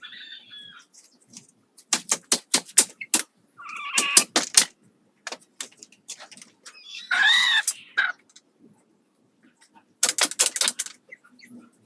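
Chickens calling in short arched squawks, the loudest about seven seconds in, between bursts of quick sharp clicks and taps from building work.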